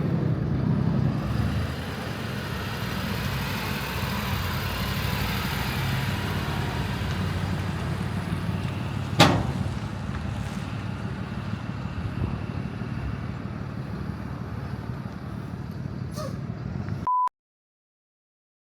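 A vehicle running steadily, with a low rumble and road or wind noise, and one sharp click about nine seconds in. About seventeen seconds in, a short high beep sounds and everything cuts off to silence.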